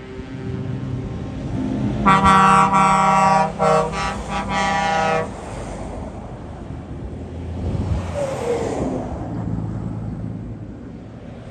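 Truck air horn blowing about two seconds in: one long blast followed by two shorter ones, lasting about three seconds in all. Truck engines run steadily underneath.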